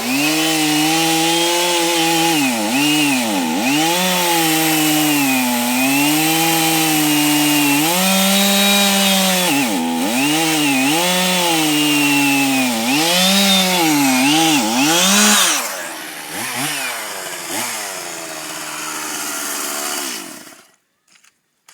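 Two-stroke chainsaw running at full throttle in a cut, its engine note dipping and recovering again and again as it bogs under load. About fifteen seconds in it drops to a quieter run, then stops abruptly near the end.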